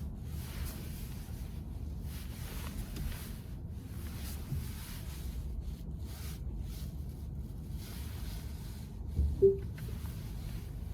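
Steady low cabin rumble of a VW ID.4 electric car, typical of road and tyre noise while driving. A single short thump with a brief ringing tone comes about nine seconds in.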